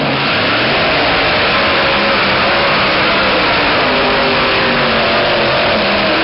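Super modified two-wheel-drive pulling truck's engine at full throttle, dragging the weight sled under load; a loud, steady engine noise with a wavering pitch.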